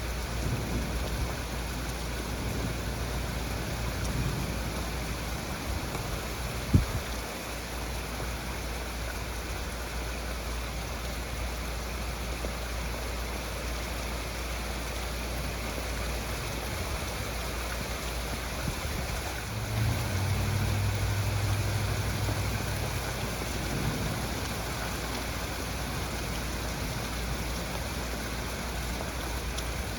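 Heavy rain pouring down steadily in a thunderstorm. There is a single sharp knock about seven seconds in, and a low steady hum for about three seconds around twenty seconds in.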